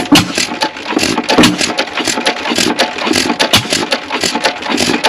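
A 3 hp Witte hit-and-miss engine running with a fast, uneven mechanical clatter of clicks and knocks, which starts abruptly.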